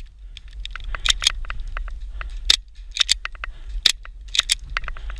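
Airsoft gunfire: a string of single sharp cracks at irregular intervals, some in quick pairs, over a low steady rumble.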